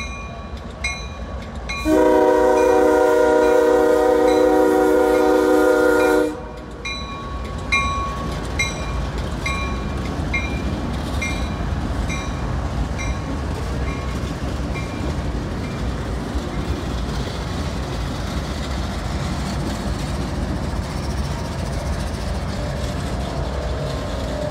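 Railroad crossing bell dinging about twice a second while a locomotive horn sounds one loud, long blast of about four seconds. After the horn, the train rumbles steadily through the crossing, and the bell stops about halfway through.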